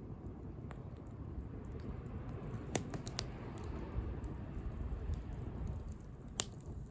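Wood bonfire crackling: scattered sharp pops, a quick cluster of three a little under three seconds in and one more near the end, over a low steady rumble.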